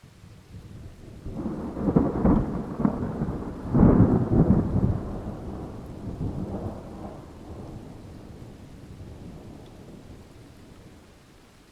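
A rolling peal of thunder. It builds from a low rumble, cracks loudly twice a few seconds in, then rolls away and fades slowly.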